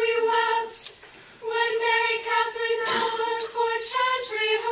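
Voices chanting English words in unison on one held reciting note of a psalm tone, pausing for breath about a second in and then carrying on along the same note.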